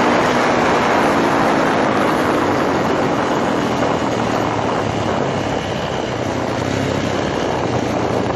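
Steady, loud vehicle noise with a rushing haze and a faint engine tone underneath.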